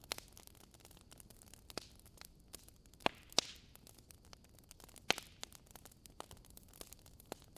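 Wood fire burning in a fireplace: irregular crackles and sharp pops over a faint hiss, with two loud pops close together about three seconds in and another about five seconds in.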